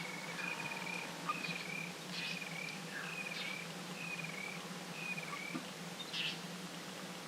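Bush ambience: an animal call of short, slightly wavering notes repeated about once a second, over a faint low steady drone.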